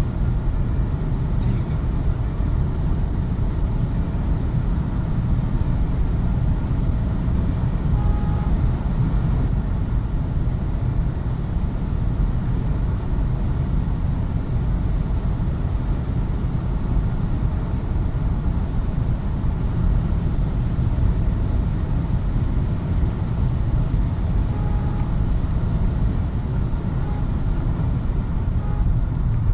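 Steady road and engine noise of a BMW X3 on the move, heard from inside the cabin as an even, deep rumble that neither rises nor falls. A couple of faint, brief tones come in about a third of the way in and again near the end.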